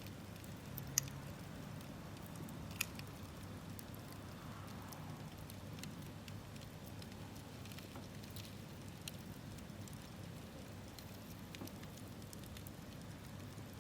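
Wood campfire burning, crackling with a scattering of sharp pops, the loudest about a second in and near three seconds, over a low steady hiss.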